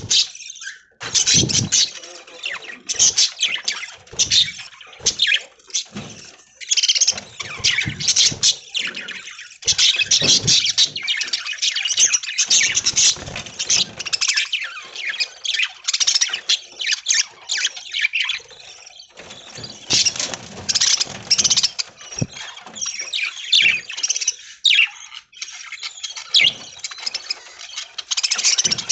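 A flock of budgerigars chattering and chirping: many short, high calls overlapping almost without a break.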